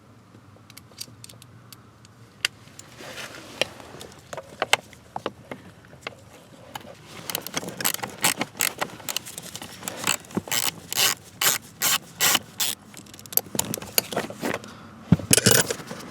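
Irregular clicks, scrapes and rattles of hand tools and car parts being handled, sparse at first and growing busy about halfway through, with a louder knock near the end.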